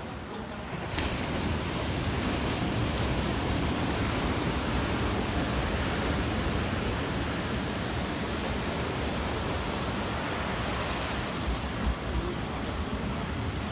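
Ocean surf washing in, a steady rushing noise mixed with wind on the microphone, swelling about a second in and holding.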